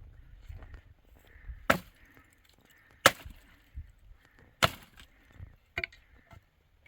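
Three hard chopping blows about a second and a half apart, with a lighter knock about a second after the last.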